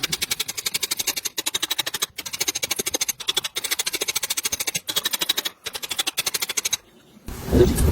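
Socket ratchet clicking fast, about ten clicks a second, in runs broken by short pauses as the handle is swung back and forth.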